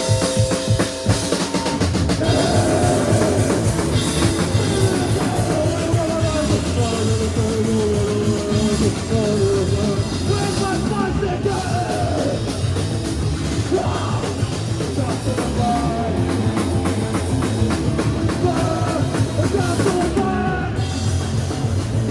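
Live rock band playing a song with a drum kit, kicking in abruptly at the start and then running at a steady loud level.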